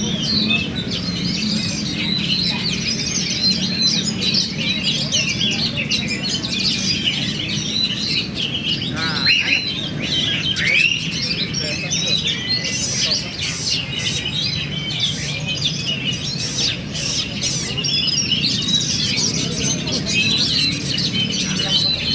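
Many caged songbirds singing at once at a songbird contest: a dense, unbroken tangle of overlapping chirps, trills and whistles. A low murmur of crowd voices runs underneath.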